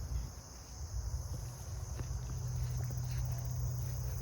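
Footsteps on a trail, a scatter of faint light steps, over steady insect chirring and a low rumble.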